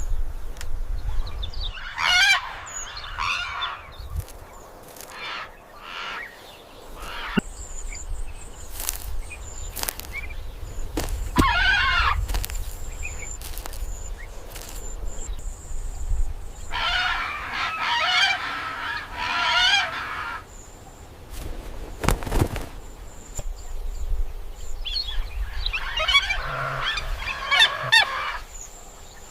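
Bird calls in four separate bouts spread through the stretch, the longest lasting about three seconds, over a low rumble with scattered sharp clicks.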